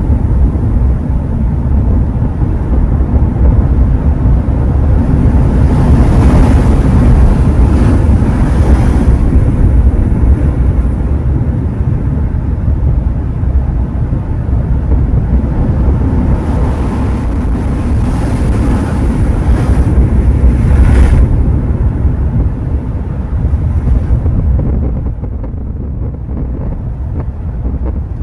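Sea waves washing onto the shore, with wind buffeting the microphone in a heavy low rumble. The surf swells twice, around six to nine seconds in and again near twenty seconds, then eases toward the end.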